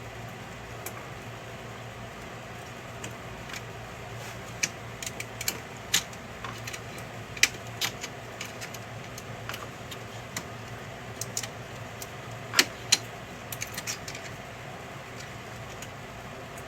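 Irregular clicks and light taps of printer parts being handled during a repair, scattered through the middle of the stretch with two sharper clicks close together near the end, over a steady low hum.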